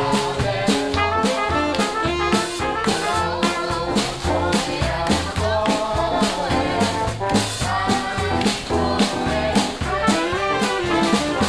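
A jazz band playing a swing tune, with brass horns over a steady beat of drums and bass.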